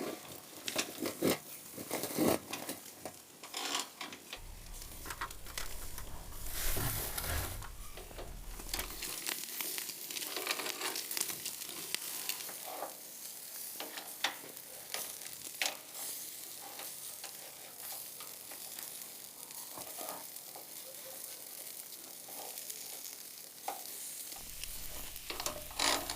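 Food sizzling over a wood fire, a steady hiss with many sharp crackles and pops.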